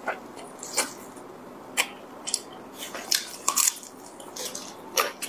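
Close-miked eating sounds of someone chewing soy-braised pork: a string of short, sharp wet smacks and bites at irregular intervals.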